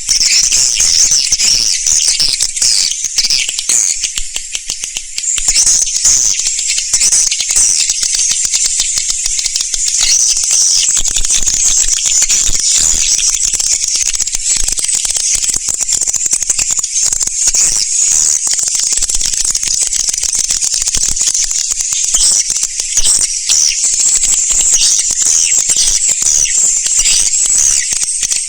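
Swiftlets twittering in a dense, continuous, high-pitched chatter of rapid chirps, the swiftlet call recording played to lure swiftlets into nesting houses. It dips briefly about four seconds in.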